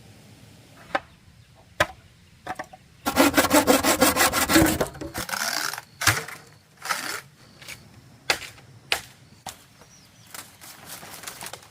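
A burst of fast, even saw strokes on bamboo lasting about two seconds, amid scattered sharp knocks and taps of wood.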